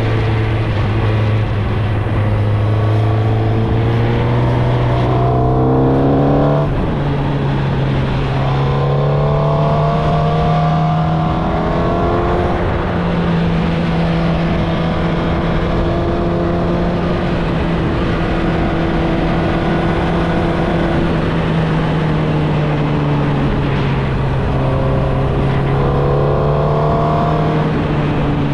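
2016 Suzuki GSX-R1000's inline-four engine through its stock exhaust, under way: it climbs in pitch, drops suddenly at a gear change about six and a half seconds in, climbs again, holds steady for several seconds, eases off, then builds again near the end. A steady rushing noise runs underneath.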